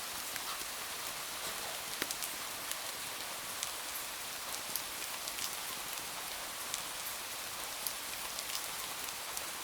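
Steady rain falling, an even hiss dotted with many short sharp ticks and pops.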